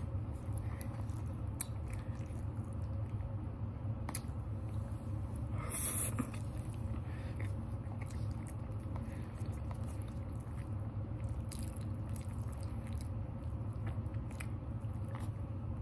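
Close-miked chewing and mouth sounds of a person eating soft broccoli Alfredo, with scattered small clicks and a brief rustle about six seconds in, over a steady low hum.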